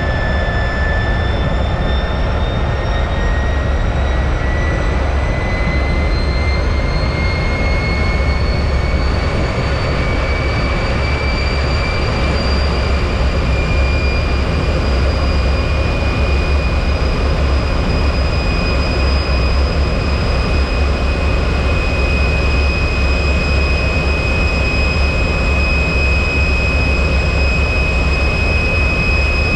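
Lockheed T-33's Allison J33 turbojet running with a steady low rumble under a high whine; the whine rises slowly in pitch over the first dozen or so seconds as the engine spools up, then holds steady.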